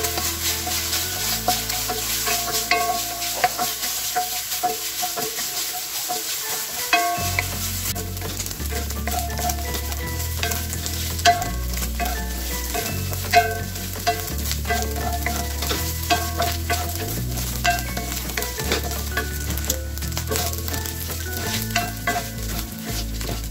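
Pieces of boiled meat frying and sizzling in a stainless steel wok while a wooden spoon stirs them, scraping and tapping against the metal with many small clicks.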